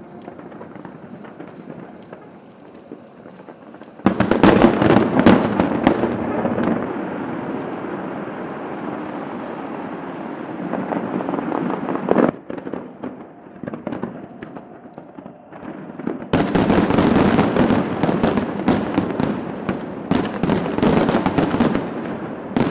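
Fireworks display going off: softer at first, then a dense, loud run of bangs and crackling that starts suddenly about four seconds in. It drops away abruptly around the middle and comes back just as loud for the last several seconds.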